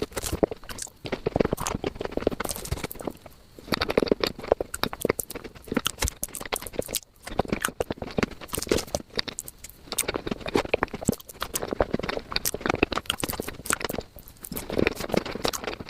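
Close-miked eating sounds played at five times speed: rapid chewing, smacking and crackling clicks of someone eating cheesecake, in dense runs broken by brief pauses.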